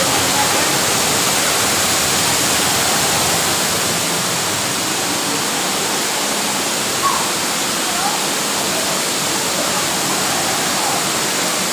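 Steady, loud rush of a large waterfall pouring down close by.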